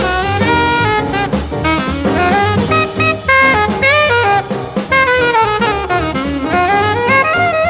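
Small bebop jazz combo playing: a single horn takes a fast improvised solo of quick running phrases, with a long descending run near the middle, over walking bass and drums.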